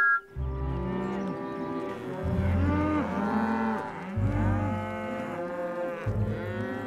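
Several animated cows mooing, their calls overlapping and bending up and down in pitch, over a low drone that comes and goes.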